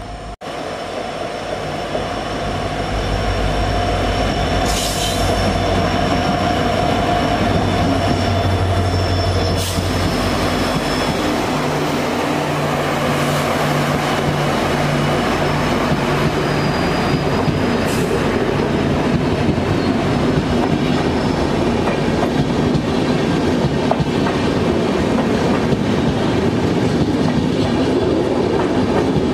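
A WDP4D diesel locomotive draws near and passes, its EMD engine running with a low hum that grows louder over the first few seconds. Thin high wheel squeals come and go in the middle. Then a rake of LHB coaches rolls past with a steady heavy rumble and wheel clatter as the train slows to halt.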